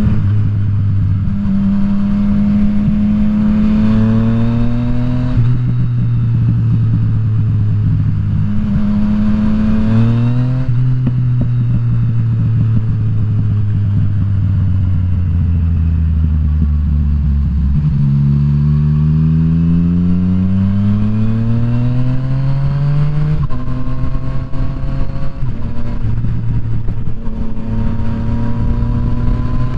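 Yamaha FZ-09's 847 cc inline-three engine heard on board the moving bike, with wind noise: the revs climb and drop back at gear changes several times, with a stretch of steady cruising in the middle and a strong pull through the gears about two thirds of the way in.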